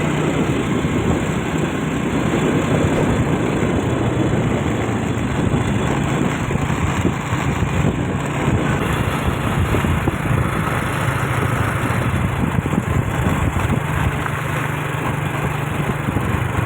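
Engine of a moving road vehicle running steadily, with a continuous rush of road and wind noise over it.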